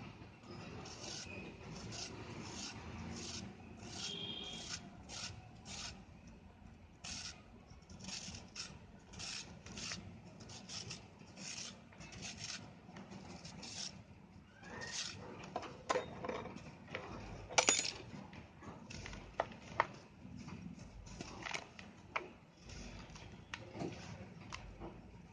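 Red sand shapes being crushed and crumbled: a run of short gritty crunches, two or three a second, then louder, sharper cracks about two-thirds of the way through.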